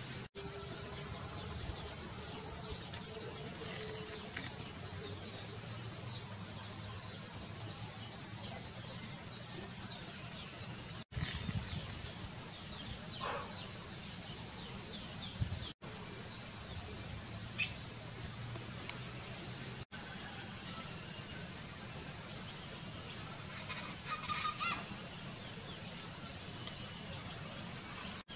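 Wild birds calling over faint outdoor background noise: scattered chirps in the first half, then shrill, squeaky high calls repeated through the last third from a sulphur-bellied flycatcher.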